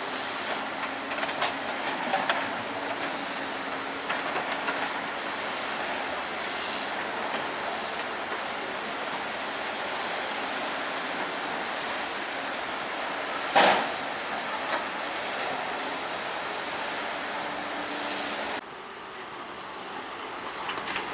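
Crawler bulldozer working, with engine noise, clanking and squealing steel tracks, and one loud metallic clank about two-thirds of the way through. Near the end the sound suddenly drops and changes.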